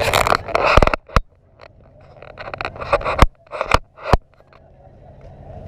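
A few sharp knocks and a faint scraping noise. The steady outdoor background drops low about a second in and comes back near the end.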